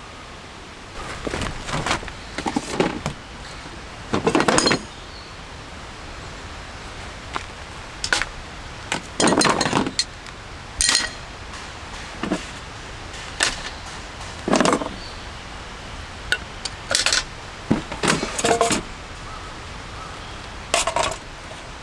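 Camp gear being handled: a series of short clinks, clicks and clatters of metal and glass objects being picked up and set down, over a steady background hiss.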